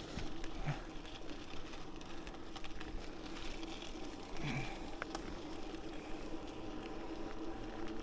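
Bicycle riding along a paved path: steady tyre and wind noise with a faint constant hum.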